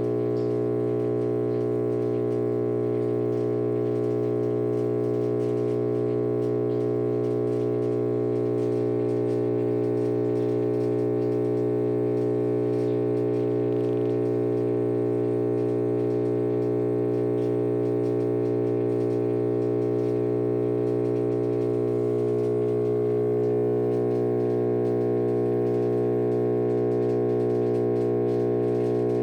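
A 300 kVA cast-resin transformer (22.9 kV to 380 V) humming loudly and steadily, a buzzing drone rich in overtones, whose tone shifts slightly about two-thirds of the way through. It is an abnormal transformer noise, which the owner puts down to corona discharge.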